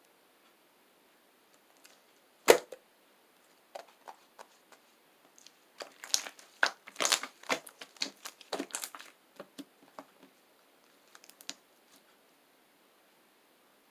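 Chocolate slime being squeezed and poked by hand, giving sharp clicking pops of trapped air: one loud pop a couple of seconds in, then a quick run of pops in the middle that trails off into a few faint clicks.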